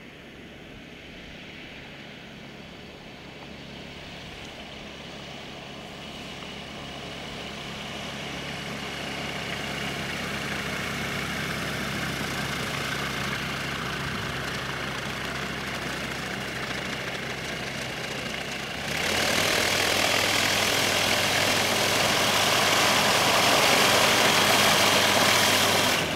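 Light propeller aeroplane's piston engine running, growing steadily louder over the first ten seconds, then jumping suddenly much louder and brighter about nineteen seconds in.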